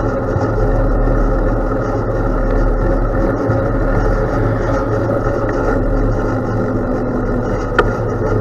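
Steady rumble of a bicycle ride on gravel, with tyre noise and wind on the microphone, and one short sharp click near the end.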